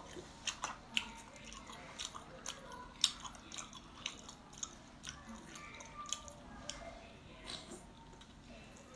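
Close-up mouth sounds of a person biting into and chewing sea anemone: irregular wet smacks and sharp squelching clicks, the loudest about three seconds in.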